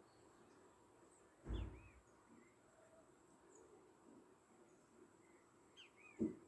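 Faint outdoor garden ambience with scattered short bird chirps and a steady faint high tone. A low thump about a second and a half in is the loudest sound, and a second, shorter one comes near the end.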